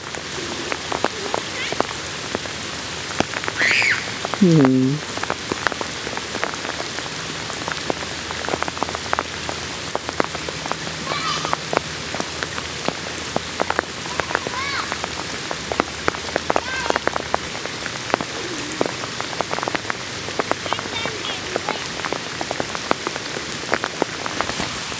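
Heavy rain falling on floodwater, a dense steady patter of drops. About five seconds in, a brief call falls in pitch, and a few fainter short calls follow later.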